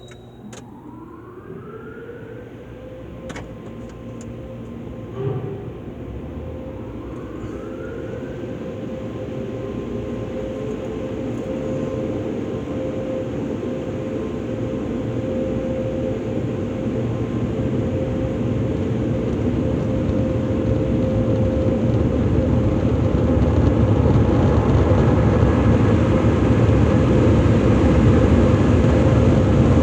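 Automatic car wash dryer blowers spinning up with rising whines, then running with a steady hum that keeps growing louder as the car moves toward them.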